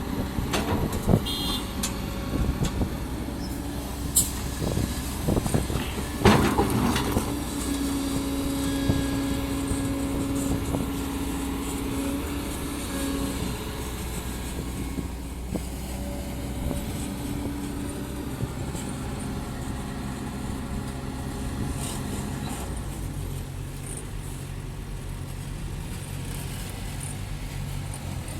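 Heavy diesel machinery running steadily, an excavator and dump trucks working earth, with a sharp clank about six seconds in.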